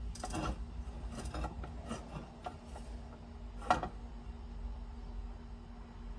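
Scattered light clicks and knocks of a pot-metal trim piece and metal tools being handled, with one sharper knock about three and a half seconds in, over a steady low hum.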